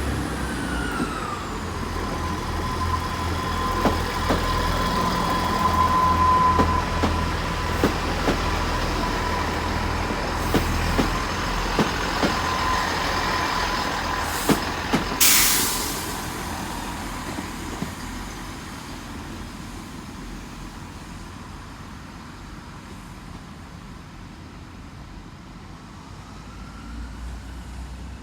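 Great Western Railway train standing at the station platform, its engines running with a low rumble and a steady whine, and scattered clicks. About 15 seconds in comes a short, sharp hiss of air release, after which the sound dies down to a quieter hum.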